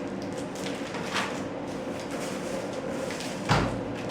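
A lighter knock about a second in, then a heavy thud about three and a half seconds in, as something heavy is knocked or set down, over a steady low hum.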